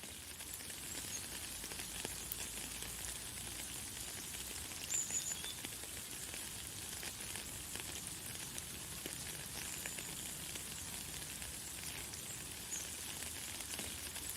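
Light, fine rain falling: a steady fine crackling patter. A few short, high chirps sound over it, the clearest about five seconds in.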